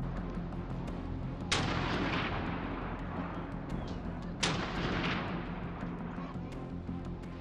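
Two rifle shots about three seconds apart, each cracking sharply and then rolling away in a long echo, over background music.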